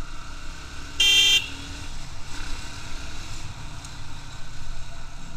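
A vehicle horn gives one short blast about a second in, over the steady running of a Bajaj Pulsar NS160's single-cylinder engine and road noise while riding.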